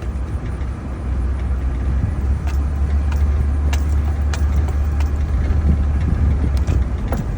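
A 1-ton pickup truck driving across a rough field: a steady low engine and road rumble with scattered knocks and rattles as it goes over the bumps.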